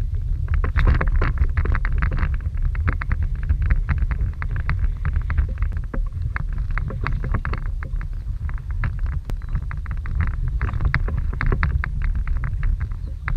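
Strong wind buffeting the microphone with a steady low rumble, over quick slaps and splashes of choppy water against a kayak's hull.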